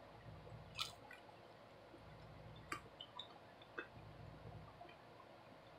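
Faint chewing of a crisp fried snack: a few soft crunches, about three in all, with low mouth sounds between them.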